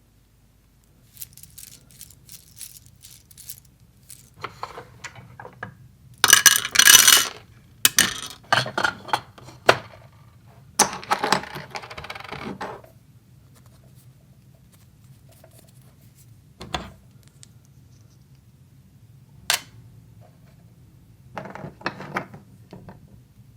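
Small hard pieces of a miniature toy kitchen set clicking, clinking and clattering as they are handled and set down, in irregular clusters. The loudest clatter comes about six to seven seconds in, and a short scraping rattle follows a few seconds later.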